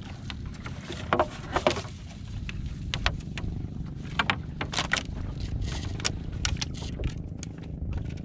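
Small fishing boat's engine running with a steady low rumble, with scattered sharp clicks and knocks over it as crab gillnet is paid out over the side.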